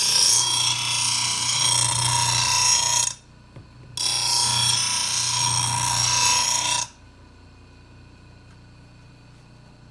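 Grinder wheel grinding along the edge of a steel lawnmower blade in two passes of about three seconds each, with a short break between; after the second pass only the grinder's faint running remains. The blade edge is being smoothed clean of nicks rather than honed sharp.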